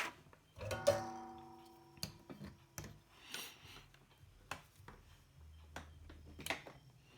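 A metal tool or part is set down with a clink that rings briefly about a second in, followed by scattered small clicks and taps of hand work at an electronics bench during soldering.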